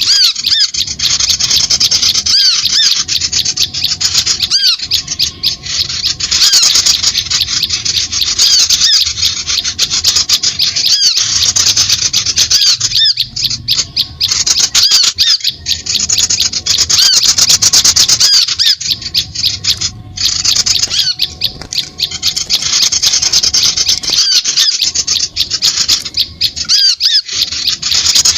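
Bird-lure recording of a dense, unbroken chorus of many small birds calling at once, rapid high chirps and squawks overlapping with no pause.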